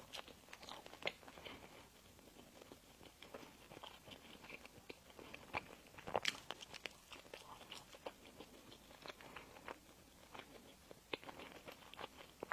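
Close-miked eating sounds of crisp pastry sweets: irregular crunching and chewing, with a louder cluster of crunches about six seconds in.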